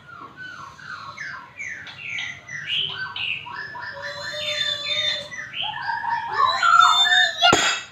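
Murai (white-rumped shama) singing a rapid, varied song of quick whistled and descending phrases, growing louder toward the end. A sharp knock sounds near the end.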